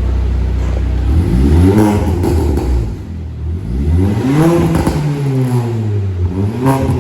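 Engine of a stage 2 modified Volkswagen Polo idling, then revved three times, each rev rising and falling in pitch.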